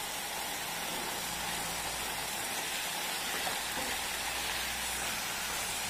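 Green peas and ground spices sizzling steadily in hot oil in a saucepan.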